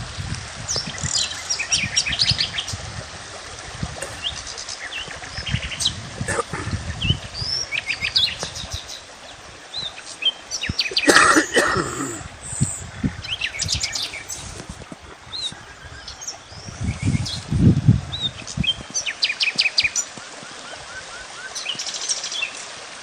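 Several small birds chirping and trilling, with short rapid trills and brief calls overlapping throughout. A louder burst of sound comes about halfway through. Low rumbling noise rises near the start and again past halfway.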